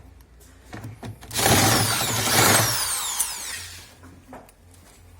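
Power drill driver with an 8 mm socket spinning out a bolt from a washing machine tub, a loud burst of about two seconds whose whine falls away as it winds down, with a few light clicks before it.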